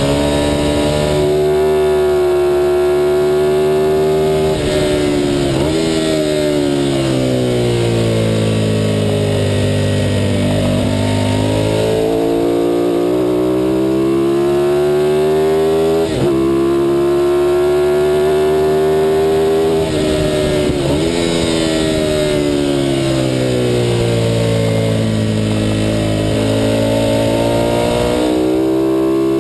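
Ducati 916 race bike's V-twin engine at speed, heard onboard: the note climbs under acceleration and falls away as it slows for corners, with brief breaks at each gear change. Wind rushes over the microphone throughout.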